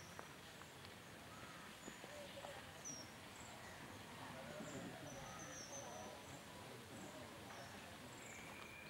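Quiet outdoor ambience with faint, scattered high chirps of birds over a soft background hiss.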